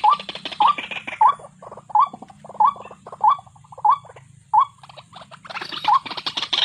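White-breasted waterhen calling: a short rising note repeated about every two-thirds of a second, over a harsh croaking chatter that grows denser near the end.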